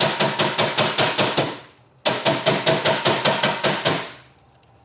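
A hand tool clattering in two bursts of rapid, even metallic strikes, about eight a second, each with a ringing note. The second burst dies away about four seconds in.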